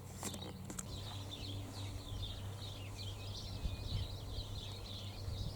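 Small birds chirping and twittering continuously over a steady low outdoor rumble, with a few faint clicks about the start.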